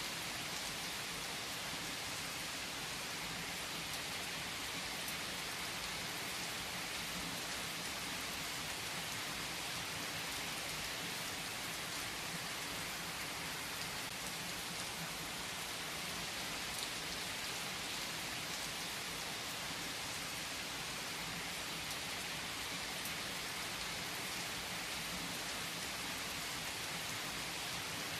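Steady rain falling and pattering on surfaces, an even hiss with scattered drop ticks, unchanging throughout.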